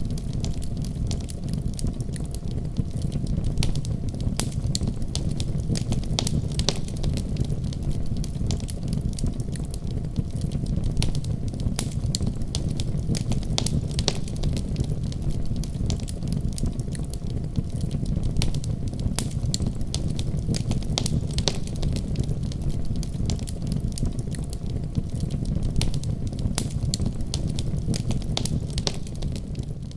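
Wood fire crackling in a fireplace: a steady low rush of flames with frequent sharp pops and crackles throughout.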